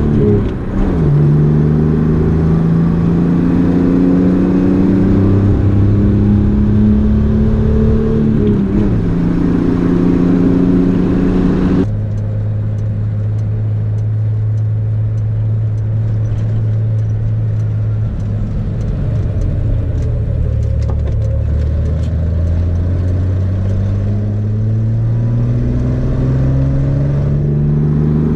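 Datsun 280Z's L28 fuel-injected straight-six running on the road, heard from inside the car. Its note drops sharply about a second in and again near eight seconds, climbing in between; after an abrupt cut at about twelve seconds it runs steadily, then rises again near the end as the car accelerates.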